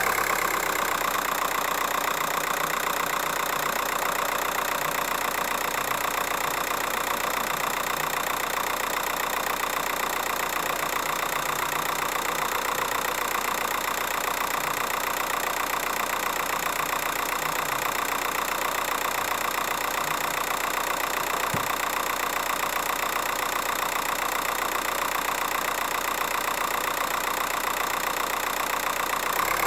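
Volkswagen 1.9 TDI (AVQ) four-cylinder diesel engine idling steadily.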